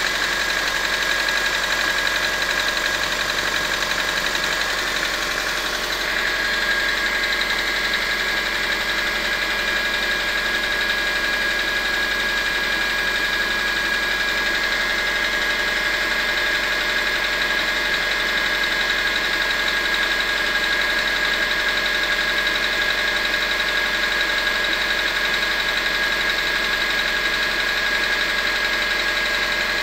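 Subaru EJ202 2.0-litre flat-four boxer engine idling steadily with a knock that the owner puts down to the number four cylinder.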